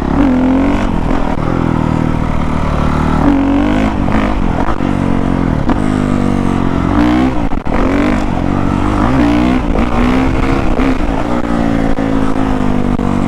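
2019 Honda CRF450R single-cylinder four-stroke dirt bike engine being ridden hard, revving up and dropping back again and again as the throttle is opened and shut. There is a brief cut in the sound about seven and a half seconds in.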